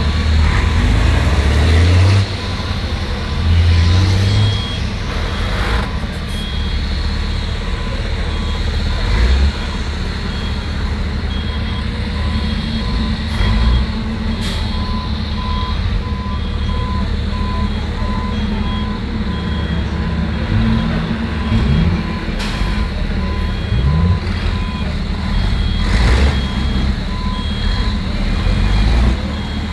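Heavy truck engines running at low speed, with a reversing alarm beeping over and over from a few seconds in and several short hisses.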